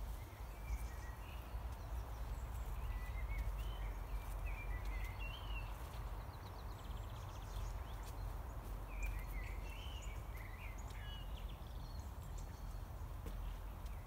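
Songbirds singing short, warbling phrases, with a quick trill about seven seconds in, over a steady low rumbling hiss.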